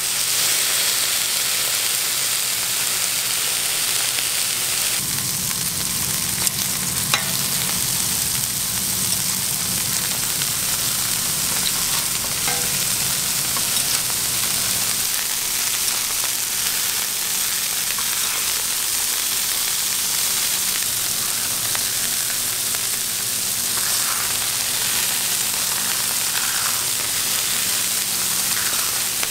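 Hamburger patties, bacon and pineapple rings sizzling steadily on a hot flat-top griddle, with a few sharp clicks of metal tongs and a spatula.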